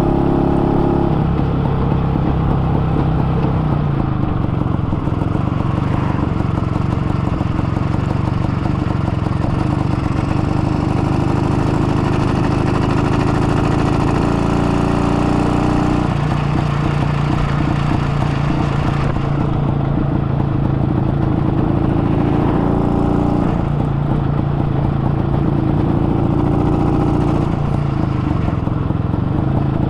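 IZh-49 motorcycle's single-cylinder two-stroke engine running on the move, its pitch stepping up and down several times. The engine is freshly rebuilt with a rebored cylinder and 75 mm piston, and is being run in at gentle speed.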